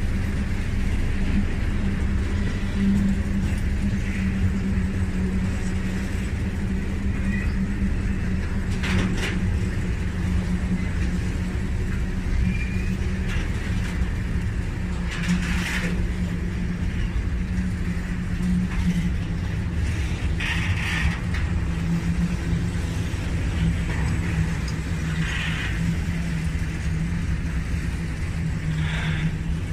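Railway tank wagons of a long freight train rolling past on the track: a steady low rumble with a constant hum, and brief sharper wheel noises every few seconds.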